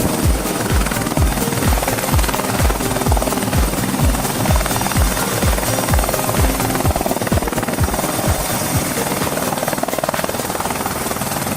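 AH-64 Apache helicopter's rotor thudding at about three beats a second over a steady turbine hum; the thuds fade away near the end, leaving the hum.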